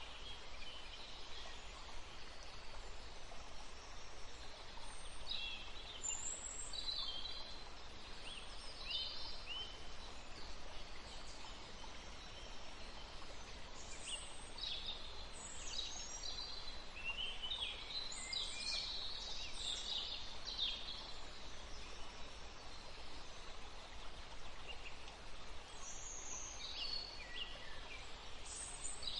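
Several birds singing, a stream of short chirps and trilled phrases, busiest about halfway through, over a steady background hiss.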